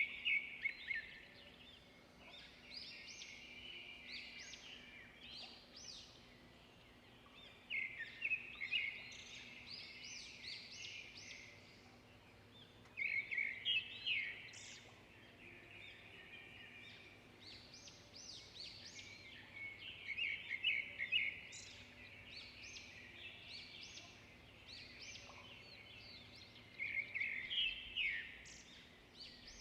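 Songbird singing: a rapid twittering phrase of quick high notes, repeated about every six to seven seconds.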